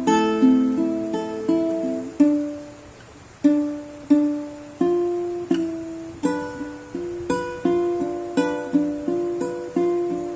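Solo plucked-string instrument, ukulele-like, playing a slow melody of single picked notes with some chord tones. One note is left ringing out and fading for about a second roughly a third of the way in, before the picking resumes.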